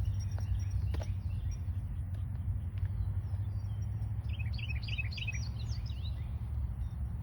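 Small songbird chirping a quick run of short, falling notes about four seconds in, over a steady low outdoor rumble.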